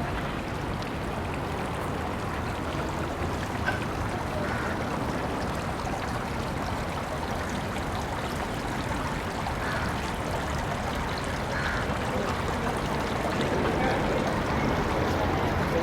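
Steady rushing water noise, growing slightly louder near the end, with a few short faint calls over it.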